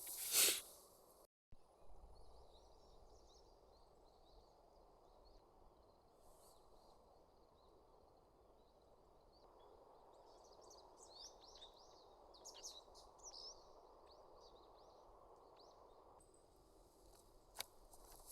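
Faint outdoor ambience: a low steady hiss with scattered short high chirps, busiest in the middle of the stretch, and a single sharp click near the end.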